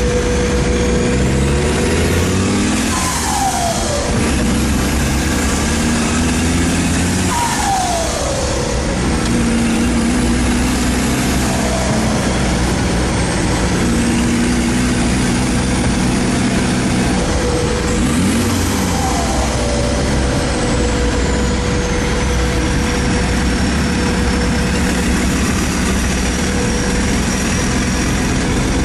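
Turbocharged 3-litre engine of a GAZ-69 off-roader running under load, its revs dropping off three times, with a high whine that rises and falls slowly.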